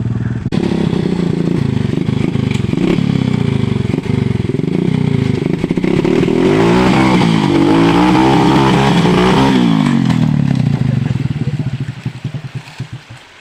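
Pit bike's small motorcycle engine running hard, its note rising and falling repeatedly through the middle, then fading out near the end.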